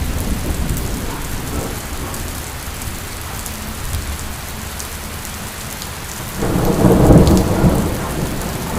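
Heavy rain falling steadily. About six seconds in, a loud low rumble swells up suddenly and dies away over about two seconds.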